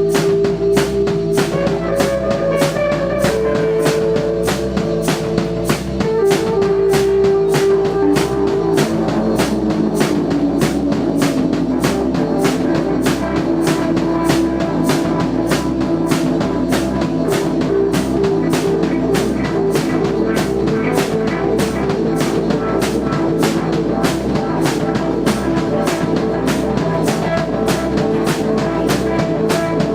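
Live psychedelic rock band playing: a driving, steady drum-kit beat under sustained, droning held notes, with the pitch of the drone sliding down about ten seconds in.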